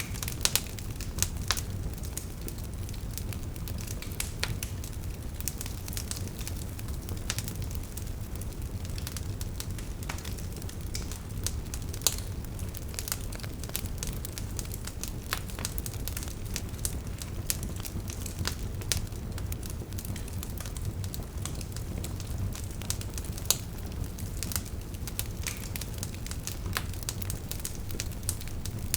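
Wood fire burning with a steady low rumble and irregular crackling, with sharp pops now and then from the burning logs.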